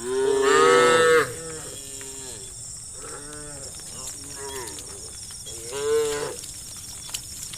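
Cattle mooing in a herd: a loud moo of about a second right at the start, several quieter moos, and another loud moo about six seconds in.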